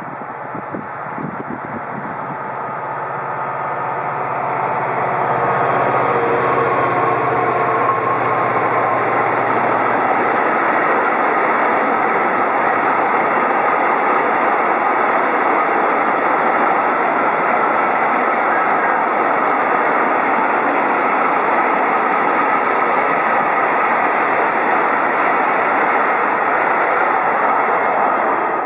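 Diesel locomotive E4025 accelerating past, its engine note rising, followed by a long rake of cement hopper wagons rolling by with steady wheel-on-rail noise. The noise cuts off suddenly near the end.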